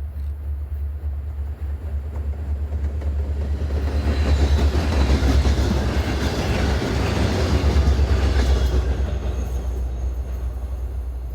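Freight train rolling past: a steady low rumble under rushing wheel-on-rail noise that swells about four seconds in and eases off near the end.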